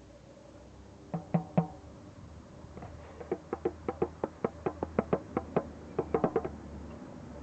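A drum being played by hand or stick: three strikes about a second in, then a steady run of beats about five a second that ends in a quick flurry.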